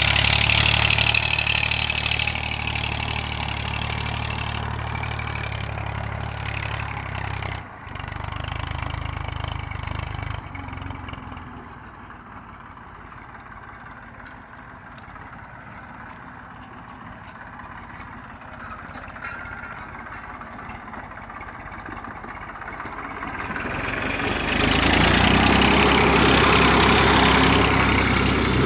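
Massey Ferguson 1035 DI tractor's three-cylinder diesel engine running steadily. It is loud for the first ten seconds, much fainter for about the next thirteen, and loud again near the end.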